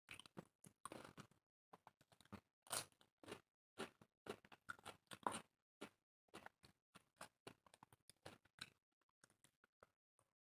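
Close-miked chewing of food: an irregular run of short crunches and bites, growing sparser near the end.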